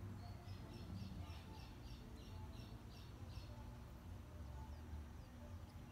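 A bird calling a run of about ten short high chirps, three or four a second, which stop about three and a half seconds in, over a faint steady low rumble.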